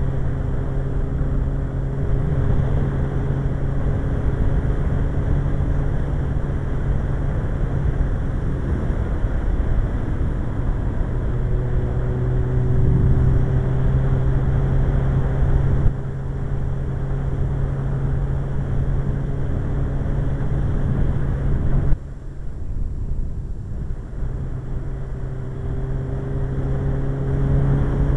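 Suzuki GSX-R 1100 inline-four engine running steadily at cruising speed under heavy wind rush. The engine note shifts now and then. About three quarters of the way through, the sound changes suddenly and the wind noise drops for a few seconds before building again.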